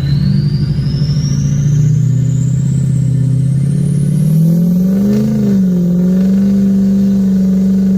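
Diesel pickup truck engine running under steady throttle while driving, with a short rise in revs about five seconds in. A thin high whistle climbs steadily in pitch through the first half.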